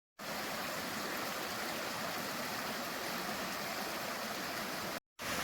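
Running water of a stream, a steady even rush with no beat. The sound drops out to silence for a moment at the very start and again near the end.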